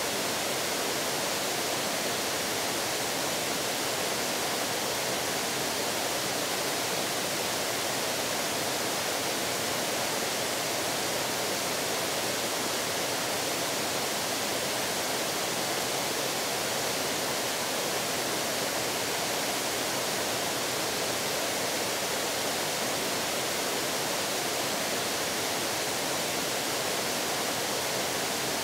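A steady, even rushing noise with no change and no bird calls in it.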